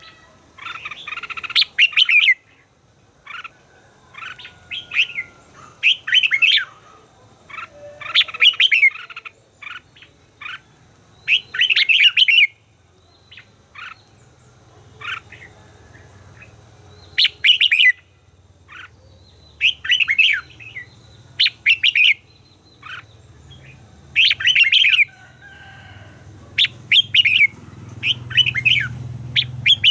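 Red-whiskered bulbuls singing: short, bright, warbling phrases, repeated every second or two.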